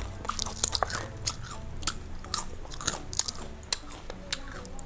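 Close-miked chewing of crunchy fried gorengan: a mouth biting and chewing, with irregular sharp crunches, a few a second.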